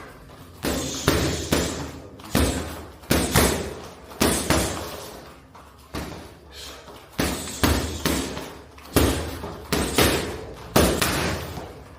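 A string of sharp, irregular knocks and slams, some with a short glassy ring, coming about one or two a second.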